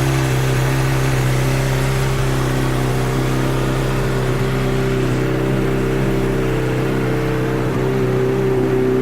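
2010 Honda CBR600RR's inline-four engine idling steadily through a Two Brothers aftermarket exhaust.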